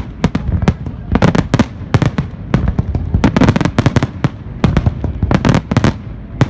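Aerial fireworks bursting in rapid volleys: a dense run of sharp bangs and crackles, several a second, over a low rumble, easing briefly a few times.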